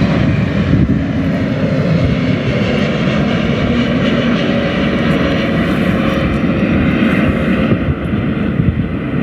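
Airbus A321 airliner's jet engines passing close on final approach to land: a loud, steady jet noise with several steady whining tones through it, the high hiss thinning out near the end.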